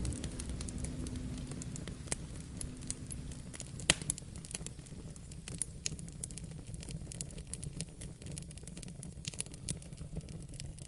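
Wood fire crackling, with many sharp irregular pops, the loudest about four seconds in, over a steady hiss of rain. A low rumble of thunder dies away at the start.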